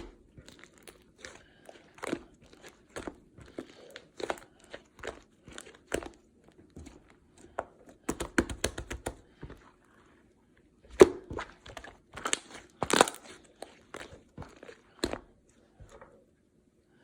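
Slime being squeezed and poked by hand, making irregular crackling pops and squishes. The sound stops briefly about ten seconds in, and the loudest pops come just after.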